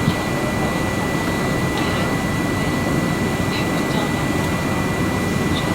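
Steady jet engine and airflow noise inside the cabin of a McDonnell Douglas MD-11 airliner, a deep even rush with a thin steady high whine over it.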